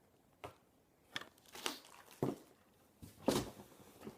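Packaging crinkling and rustling as parts are handled, in about five short bursts, the loudest a little past three seconds in.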